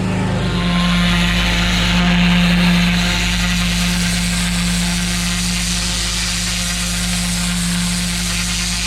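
Pressure washer running: a steady engine hum under the loud, even hiss of the high-pressure water jet, which comes on just after the start.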